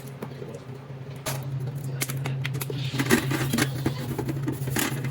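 Dishes and utensils clinking and clattering as they are washed at a sink, over a steady low hum.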